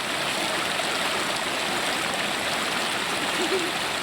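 Steady rushing of a mountain stream, a dense even hiss of fast-flowing water.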